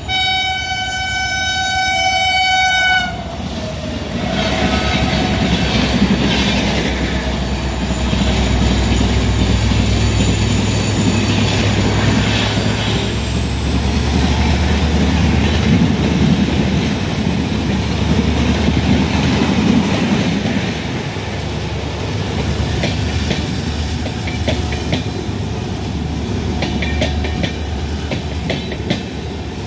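Horn of a WDP4 diesel locomotive, with its EMD two-stroke engine, sounding a held chord that cuts off about three seconds in. Then the locomotive and its train run past with a heavy rumble, and wheels click over rail joints near the end.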